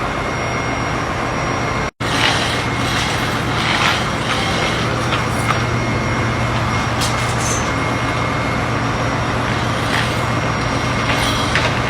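Steady drone of a cargo ship's engine-room machinery, with a constant low hum and a few faint metallic clinks.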